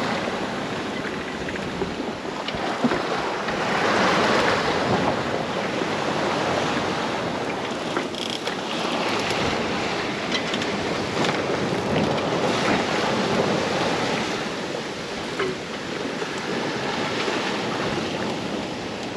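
Sea water rushing past the hull of a sailboat under sail, with wind buffeting the microphone. The rush swells and eases every few seconds with the waves, and there are a few faint knocks.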